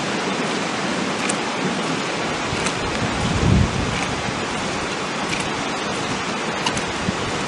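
Steady hiss of rain and wind during a tornadic thunderstorm, with scattered faint ticks and a brief low rumble about three and a half seconds in.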